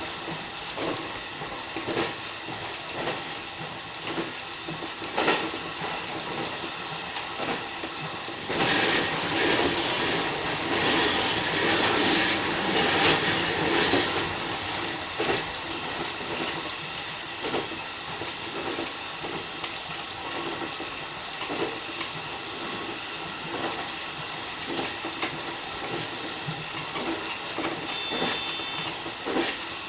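Electric commuter train running along the line, its wheels clicking over rail joints in a steady rhythm. About eight seconds in, the running noise grows louder for several seconds, then settles back.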